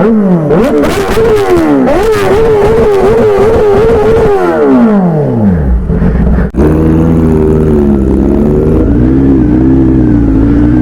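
Kawasaki Z900 inline-four with an aftermarket exhaust, revved hard in quick repeated blips with the pitch rising and falling sharply, then dropping away. After a brief break about six seconds in, the engine runs steadily with small changes in pitch.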